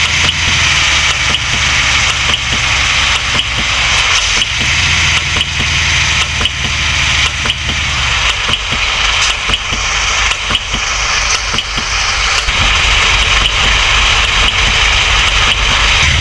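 Vehicle engine running.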